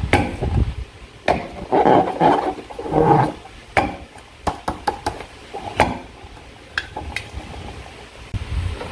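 Slime and rubber balloons being handled by hand: a run of sticky clicks and rough, squelching stretches, busiest in the first few seconds and sparser later.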